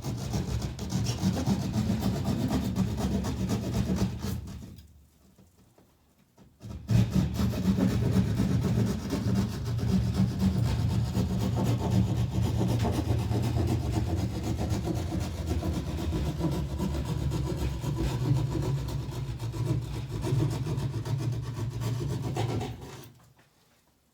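A saw cutting through ceiling board in two long runs, with a break of about two seconds about four and a half seconds in.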